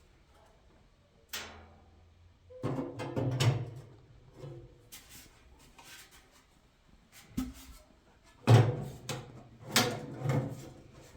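Irregular clunks and scrapes of objects being handled, in several bursts of about a second each, the loudest near the end.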